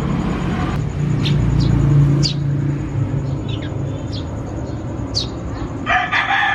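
A steady low rumble, like a motor running, with scattered short, high chirps from small birds. A rooster starts crowing near the end.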